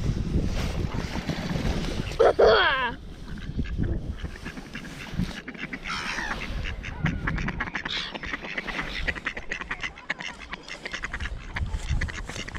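Ducks and geese calling at close range: one loud call about two seconds in, then a run of rapid quacking chatter in the second half. Wind rumbles on the microphone at the start.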